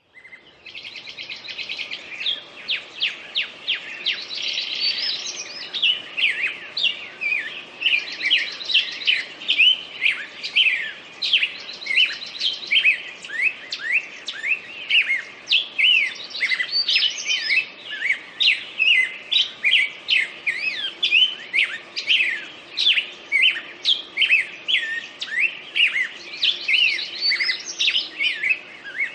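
Songbirds chirping in a dense, continuous chorus: many short quick chirps several times a second, broken now and then by buzzy trills.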